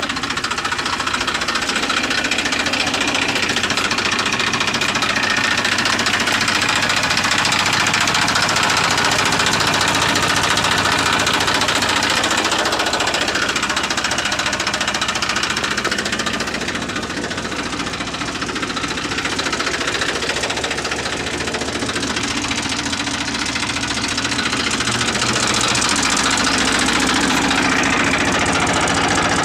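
Eicher 380 tractor's diesel engine running steadily with a knocking clatter, dipping slightly in level about halfway through.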